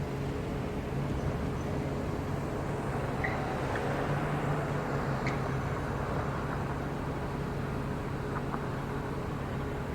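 Road traffic: a steady engine hum with a vehicle passing that swells a little about four seconds in.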